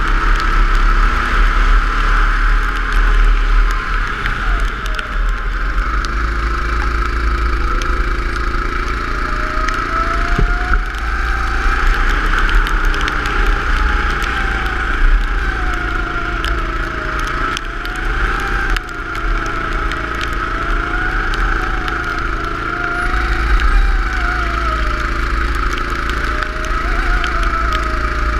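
Go-kart engine running at speed, its revs rising and falling again and again in waves as the kart goes through corners.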